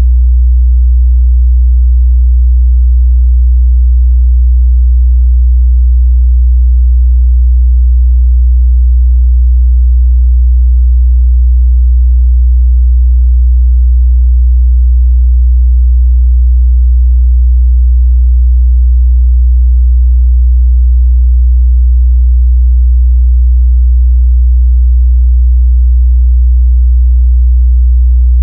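A steady, loud 61 Hz sine test tone: a pure, unbroken low hum with no change in pitch or level.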